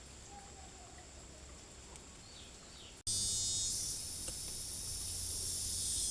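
Insects calling. First a faint, steady high trill with a couple of soft chirps. After an abrupt cut about three seconds in comes a much louder, dense high-pitched insect buzz.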